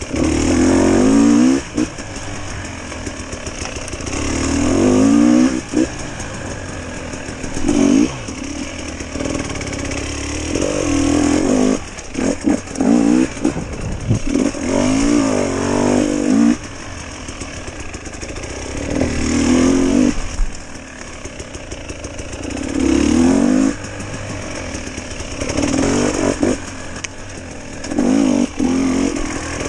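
GasGas enduro motorcycle engine ridden in short bursts of throttle, each revving up and falling back, a few seconds apart, with a longer stretch of hard revving and some clattering around the middle.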